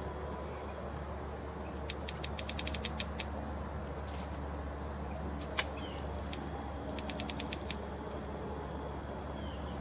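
Unidentified sharp clicking from a tree: a quick run of about a dozen dry clicks, a single louder click a few seconds later, then a shorter run of about eight clicks. To those standing near it, it sounds like something right on the other side of the tree, possibly a bigger bird, but they cannot find the source.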